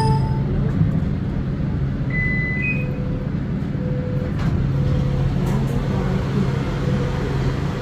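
Steady low hum and rumble of an Eglinton Crosstown light rail train running, heard from inside the car, with a few faint short tones over it.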